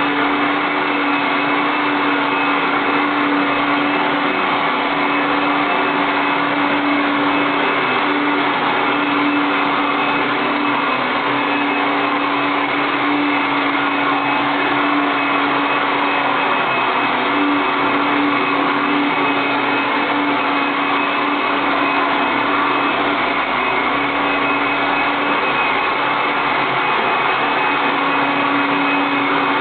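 Robot vacuum cleaner running steadily: a continuous rushing suction noise over a steady motor hum, with no pauses.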